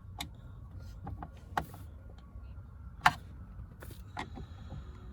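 A few sharp clicks and knocks, the loudest just after three seconds in, over a low steady hum: the BMW X5's iDrive monitor and dash trim being fitted back into place.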